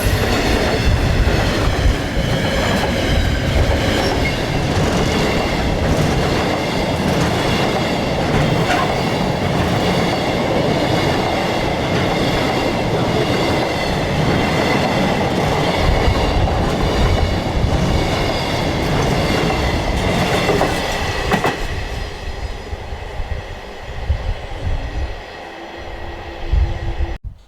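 A train passing at close range: wheels rolling on the rails, with several steady high-pitched ringing tones over the rumble. It fades away from about 22 seconds in and cuts off sharply just before the end.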